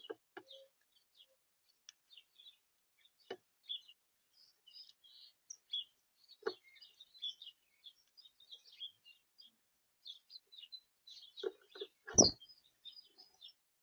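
Small birds chirping in many short high notes, with a few sharp knocks against the feeder, the loudest near the end.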